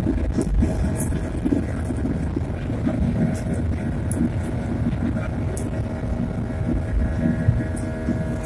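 Airliner cabin during takeoff: the engines give a steady low rumble with several held tones over it, and small rattles and clicks run through it.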